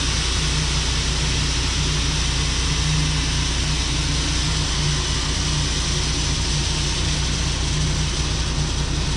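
Steady rushing hiss of shelled corn pouring from the fully opened back hopper of a hopper-bottom grain trailer into the elevator pit, as the load runs out, over a steady low engine hum.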